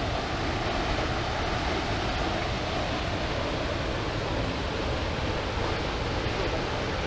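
Steady rush of a large waterfall (Düden Waterfall) heard close by, a constant even roar of falling water with no change in level.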